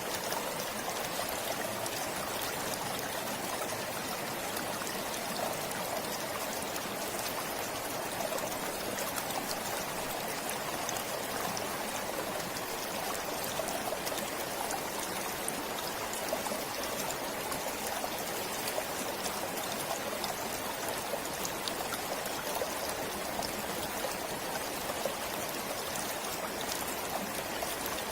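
Forest stream flowing steadily: a continuous rush of water with fine trickling splashes.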